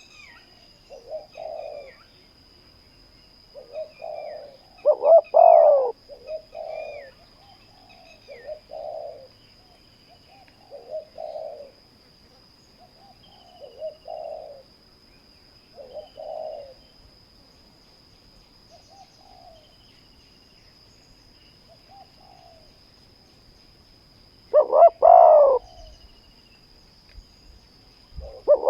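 Spotted doves cooing in repeated short phrases about every two to three seconds, with much louder, closer coos about five seconds in and again near the end. Small birds chirp faintly, over a faint steady high-pitched tone.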